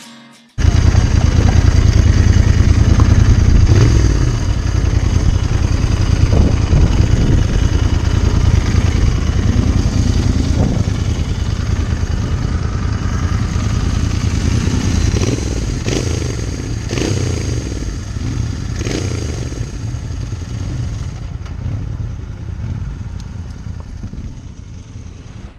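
Royal Enfield Interceptor 650's 648 cc parallel-twin exhaust running, with several short blips of the throttle. It starts suddenly about half a second in and fades out over the last few seconds.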